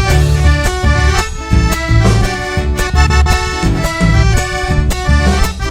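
Instrumental passage of a live Argentine chacarera: an accordion plays the melody over a deep drum beat that falls about once a second.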